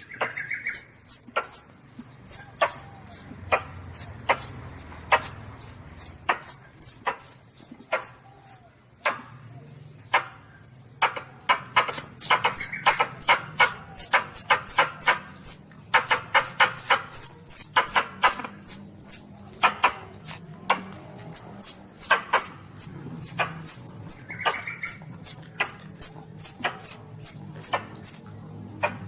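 Baby Asian palm civet (luwak) calling: a rapid series of short, very high squeaks, each falling in pitch, about three a second, with a brief pause about ten seconds in.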